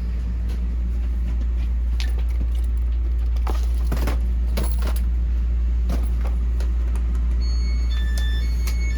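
Steady low rumble of a moving train heard from inside the carriage, with scattered clicks and light rattles. Near the end, a run of short electronic tones at several different pitches starts, like a chime.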